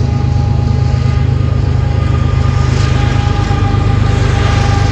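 Union Pacific freight train passing, with two mid-train diesel locomotives (distributed power units) going by: a loud, steady low diesel drone with a couple of thin, steady whining tones over the rumble of the wheels on the rails.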